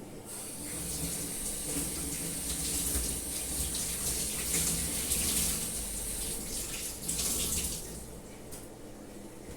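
Water running steadily from a tap; it comes on just after the start and is shut off about eight seconds in.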